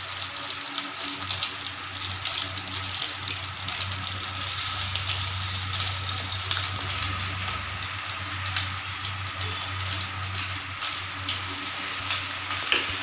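Rice pakoras (rice-and-egg batter fritters) sizzling as they fry in hot vegetable oil in a pan, a steady hiss with many small crackles and pops. A steady low hum runs underneath.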